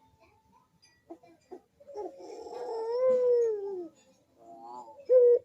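A puter dove (ringed turtle dove) cooing: one long drawn-out coo about two seconds in that rises slightly and then falls away, followed by shorter coo notes near the end.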